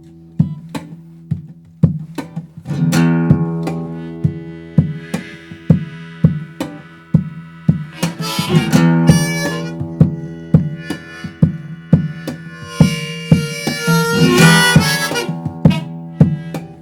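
Instrumental song intro played live and unplugged: acoustic guitar keeping a steady strummed rhythm, with a harmonica rising over it in three long phrases.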